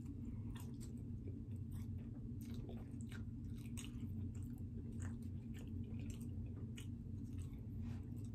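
A person biting into and chewing a slice of pepperoni pizza, with irregular soft mouth clicks and crackles, over a steady low hum.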